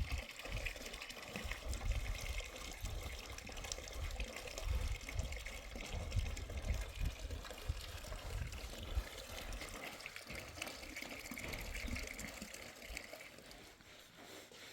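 Water running steadily, with an uneven low rumble underneath, easing off near the end.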